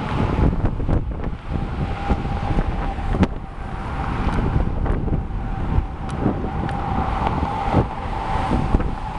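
Wind buffeting the microphone of a camera riding on a moving bicycle: a steady low rumble, with a faint steady whine and a few sharp clicks scattered through it.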